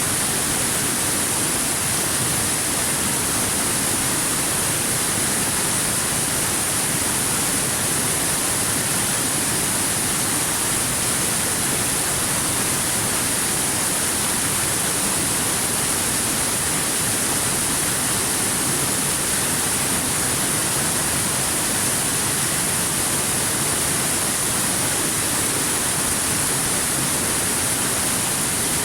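Waterfall: a steady, unchanging rush of falling water, bright and hiss-like.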